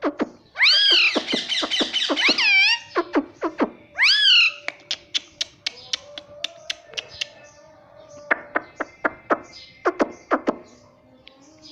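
Indian ringneck parrot giving a rapid string of shrill calls that rise and fall in pitch, one more about four seconds in, then a long run of sharp clicks, a few a second, bunching together near the end.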